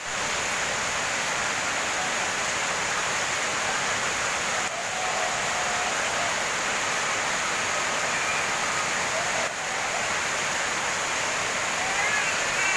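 Heavy rain falling steadily, a continuous hiss of rain and running water.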